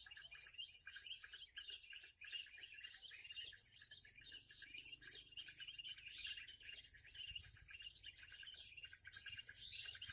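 Dense, continuous high chirping of birds and insects, with many short repeated notes overlapping.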